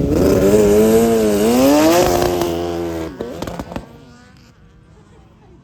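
A racing vehicle's engine running at high revs, its note dipping and then climbing as it accelerates, then fading away about three seconds in.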